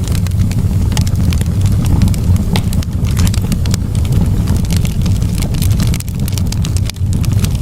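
Campfire burning, the wood crackling and popping irregularly over a steady low rumble.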